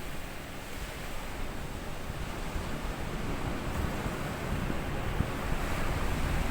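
Small sea waves washing up onto a sandy beach: a steady rushing wash that slowly grows louder, with low gusts of wind on the microphone.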